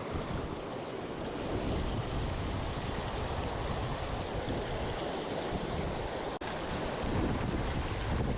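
Steady rush of flowing creek water, with wind buffeting the microphone. The sound drops out for an instant about six seconds in.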